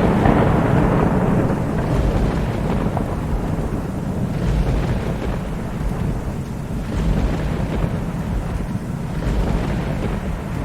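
Thunderstorm: steady rain with a long rolling rumble of thunder that comes in loud at the start and swells and eases throughout.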